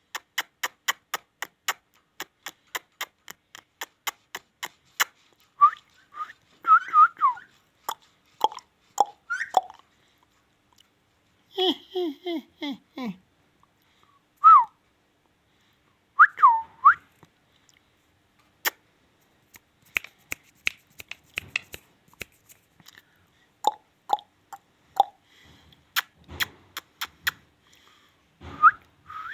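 Indian ringneck parakeet clicking and whistling: a steady run of about four clicks a second for the first five seconds, then short whistles that rise and fall in pitch, a lower call falling in pitch about twelve seconds in, and more clicks and whistles near the end.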